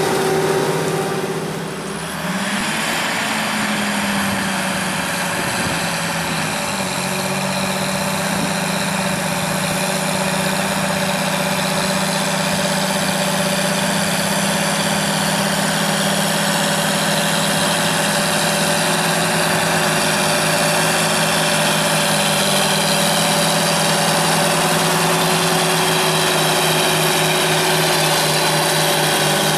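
Large farm tractor's diesel engine running steadily under load while pulling a plough, with a brief dip in loudness about two seconds in.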